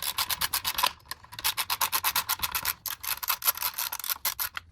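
Hand tool working on the dirt bike's metal parts: rapid rasping strokes, about eight a second, with short breaks about a second in and again near three seconds.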